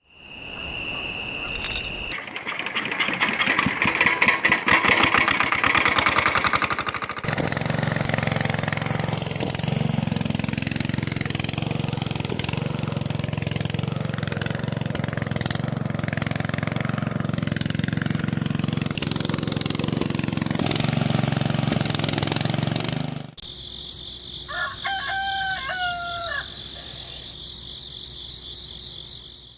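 A small engine rattles quickly, then runs with a steady low hum that cuts off suddenly. Near the end a rooster crows once.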